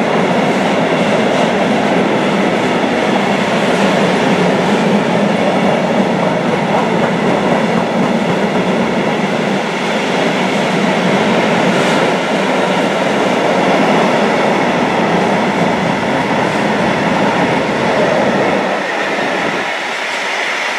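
Freight train of coal hopper wagons rolling past close by: a steady, loud rumble and clatter of wheels on the rails. The noise drops away near the end as the last wagons go by.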